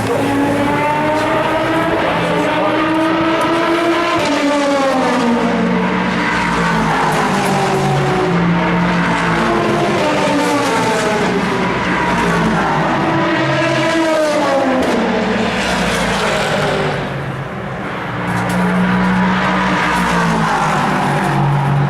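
Race car engines running hard on track. The pitch climbs and then drops at each gear change, repeatedly, with a brief dip in loudness near the end.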